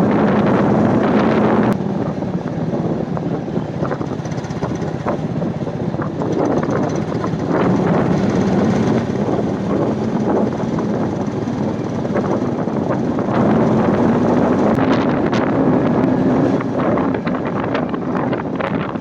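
Royal Enfield Meteor 350's single-cylinder engine running under way, its note rising and falling, with wind noise on the microphone.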